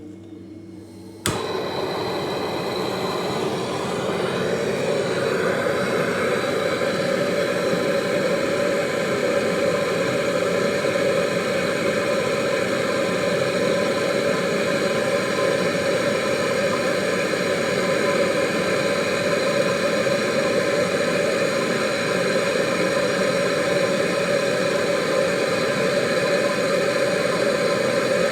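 A machine switches on suddenly about a second in and runs steadily, a loud even drone that builds slightly over its first few seconds.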